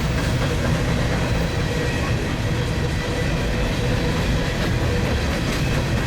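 Freight train rolling past at trackside, a steady rumble of wheels on rail with some clickety-clack of the cars.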